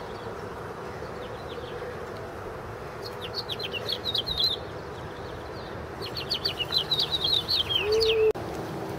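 A songbird singing two runs of rapid high chirps, the second longer and louder, over a steady low background hum. A short low beep comes near the end.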